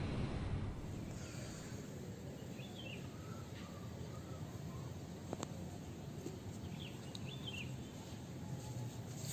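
Outdoor ambience: a steady low background noise with faint bird chirps a few times, and a single sharp click about halfway through.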